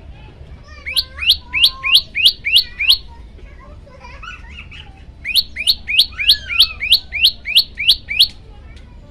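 Prenjak lumut songbird singing two bursts of rapid, evenly repeated sharp chipping notes, about three a second, each note a quick downward sweep. Softer twittering comes between the bursts.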